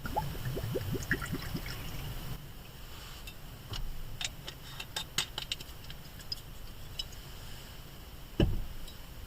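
A drink poured with a quick run of glugs for about two seconds, then scattered light clicks and taps, and one dull thump near the end.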